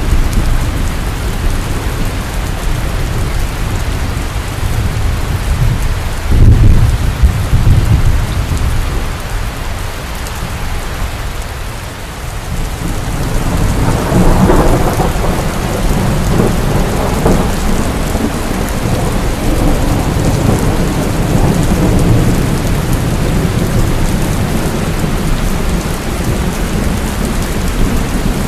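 Heavy rain falling steadily, with a sudden loud crack of thunder about six seconds in. A longer rolling rumble of thunder swells up around the middle and slowly dies away.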